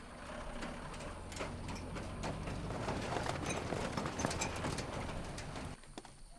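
Soldiers scrambling for cover: hurried footsteps and clattering gear, many quick irregular clicks and rustles over a low rumble that cuts off suddenly near the end.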